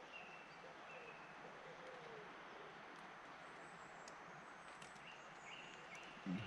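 Quiet outdoor ambience with faint bird calls, thin high chirps coming and going. A short low sound, louder than the rest, near the end.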